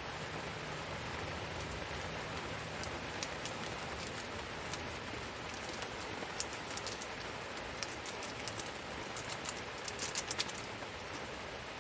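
Heavy rain falling steadily, with scattered sharp drop taps that come thick and fast near the end.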